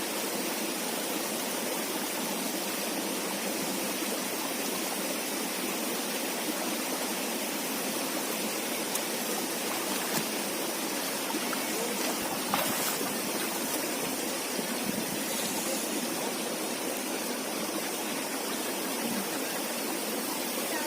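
A river flowing steadily, an even rush of water. A single brief click sounds a little past halfway.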